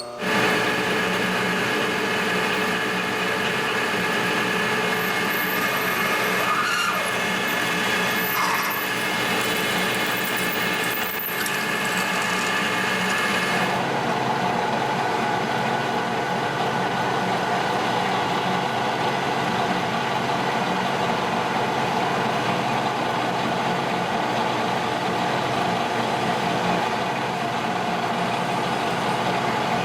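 Metal lathe running steadily while a drill bores a hole into an aluminium workpiece. About fourteen seconds in, the high hiss drops away and a lower, steady hum takes over.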